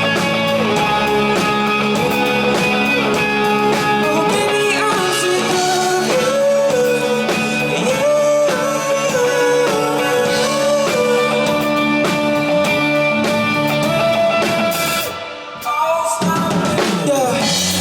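Live rock band playing an instrumental break: a lead guitar melody over drums and bass. Near the end the band cuts out for about a second, then crashes back in together.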